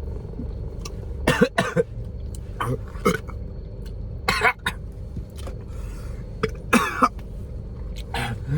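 A woman coughing in several short clusters of sharp coughs over a steady low rumble, as food or sauce catches in her throat while eating.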